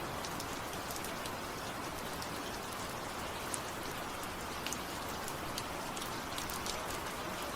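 Steady rain falling, an even hiss with scattered patter of drops.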